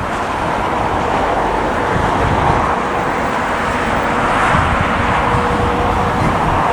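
Jet airliner on its takeoff roll heard from a distance: a steady roar of engines at takeoff power that swells slightly.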